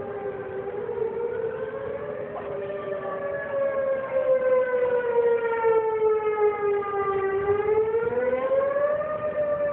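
Outdoor tornado warning sirens wailing, each tone slowly rising and falling in pitch over several seconds, with at least two sirens sounding out of step at slightly different pitches.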